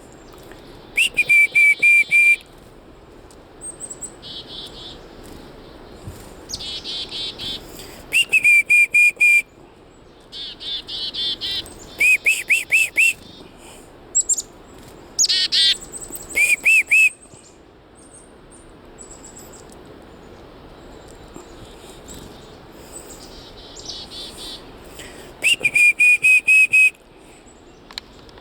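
Black-capped chickadees calling chick-a-dee-dee-dee close by: five loud runs of quick repeated dee notes, with fainter high calls in between.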